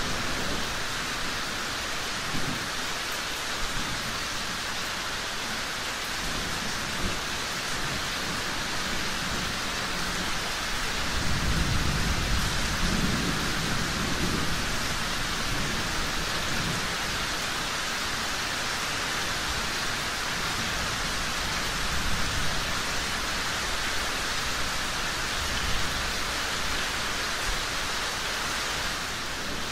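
Steady rain falling, an even hiss. About eleven seconds in, a low rumble of distant thunder swells for a few seconds and fades.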